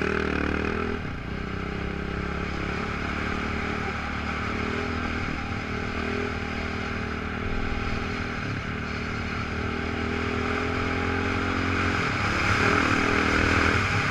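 Off-road motorcycle engine running steadily with a rattle of clatter, getting louder near the end.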